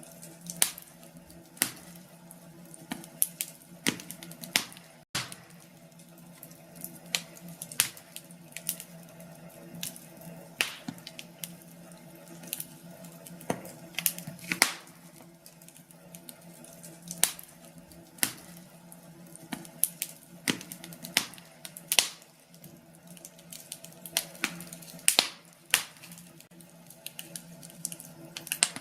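Wood fire burning in a fireplace, crackling with irregular sharp pops and snaps over a low steady hiss.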